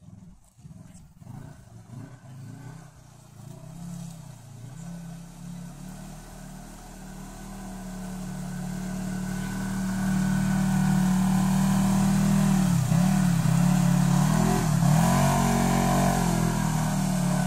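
Off-road vehicle engine drawing closer, growing steadily louder over the first ten seconds, then revving up and down several times.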